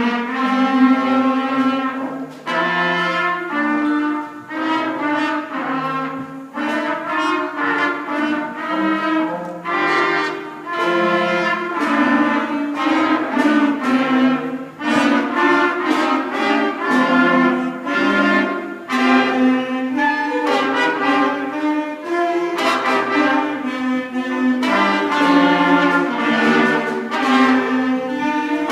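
Fifth-grade beginner concert band of clarinets, flutes, saxophones, trumpets, bass and percussion playing a tune in a minor key. The parts are divided and the held notes come in phrases with short breaks between them.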